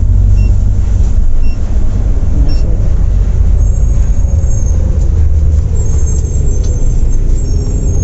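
Volvo B8R coach under way, a steady heavy low rumble of engine and road noise.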